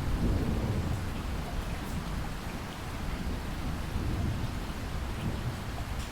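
Steady rain falling, with a low rumble of thunder underneath that is strongest in the first second.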